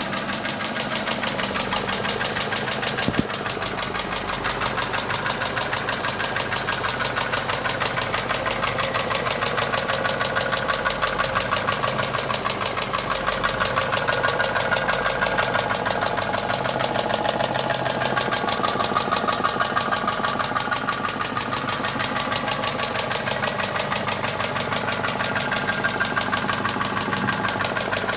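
Mercedes M111 2.2-litre inline-four petrol engine running steadily with a fast, even knock from inside the engine, the sign of internal wear that the uploader files under a needed overhaul.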